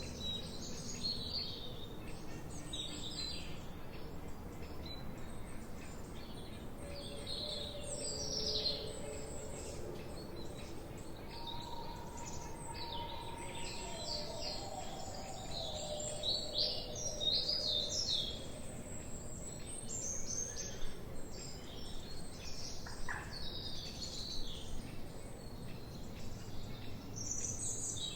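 Several songbirds chirping and singing, short quick chirps and trills overlapping throughout, over a steady low background hiss.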